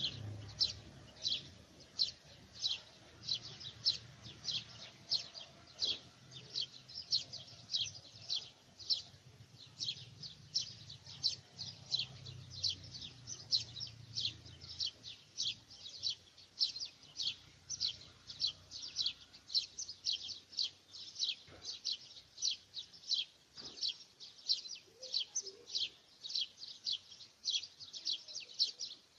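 A bird chirping evenly and without let-up, short high chirps at about two to three a second.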